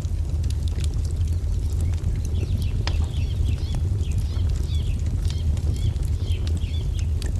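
Wood fire crackling, with a steady low rumble and scattered sharp pops, while small birds chirp over it in quick repeated calls.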